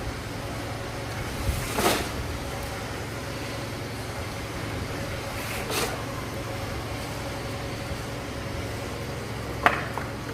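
A steady low machine hum, with two brief scraping swishes about two and six seconds in and a sharp knock near the end.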